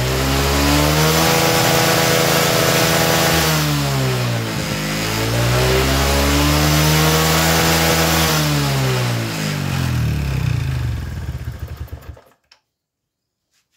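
Honda Karisma 125 single-cylinder four-stroke motorcycle engine revved up and let back down twice, then fading out about a second before the end.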